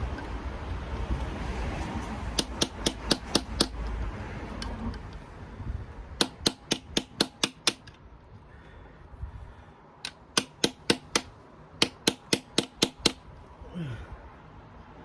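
Hammer tapping on a metal cap or plug in the engine's V: four bursts of quick, sharp strikes, about five a second. The blows are knocking loose a pressed-in plug so it can be flipped and pulled out.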